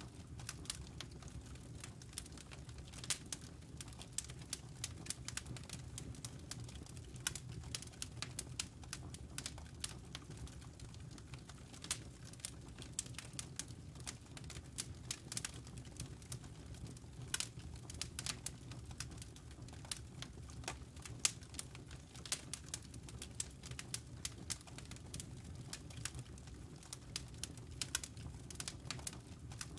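Campfire embers and burning wood crackling: sharp, irregular pops and snaps, several a second, over a steady low rumble of the fire.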